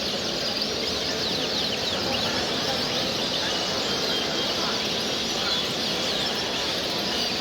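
Dense chorus of many small ornamental cage birds chirping and trilling at once, quick high chirps overlapping throughout, over a steady background hubbub.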